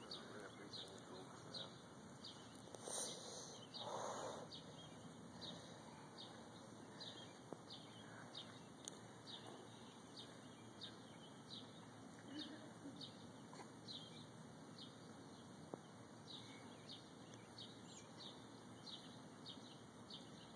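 Faint outdoor near-quiet with a bird chirping one short, high note over and over, about three chirps every two seconds. Two soft brief swells of noise come about three and four seconds in.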